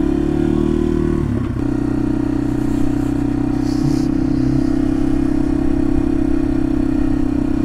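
2021 Yamaha TW200's single-cylinder four-stroke engine running steadily while the bike cruises, with a brief dip in engine note about a second and a half in.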